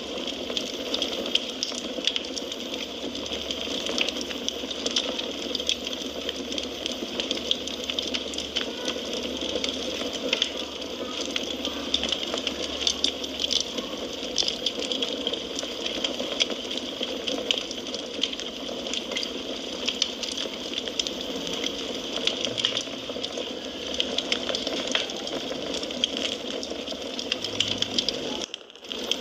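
Wood fire crackling: a steady hiss with frequent small pops and snaps, with a momentary dropout about a second before the end.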